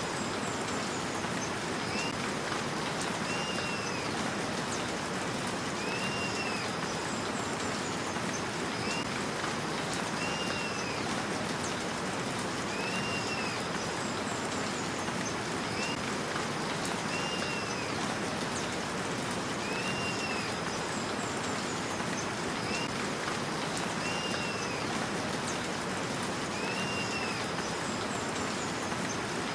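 Steady rain hiss, with a bird's short arched chirp and a few higher notes repeating at even intervals about every two seconds.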